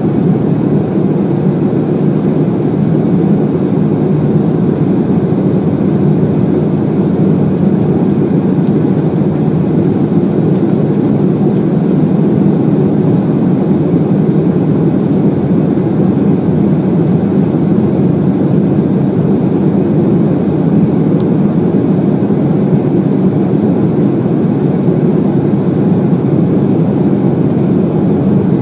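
Steady, loud drone inside the passenger cabin of an Embraer E190 airliner: its twin GE CF34 turbofan engines and the rush of air past the fuselage, holding level with no change.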